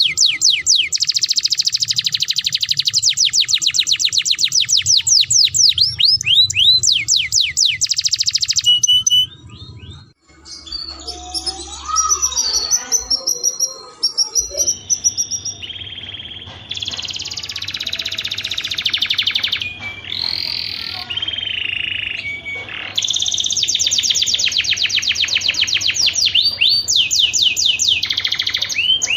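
Domestic canary singing: long runs of fast repeated trill notes, broken about nine seconds in by a quieter, more varied stretch of chirps and glides before the rolling trills return, with a faint low hum underneath.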